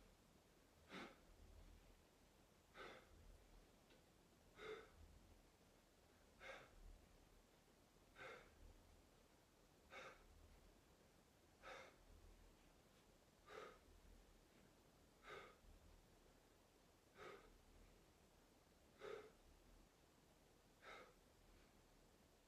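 A person breathing out in short, breathy puffs, one about every two seconds in an even rhythm, twelve times, over faint room hiss.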